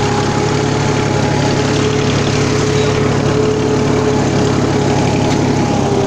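Tractor engine running steadily at a constant speed: a low drone with a steady whine over it.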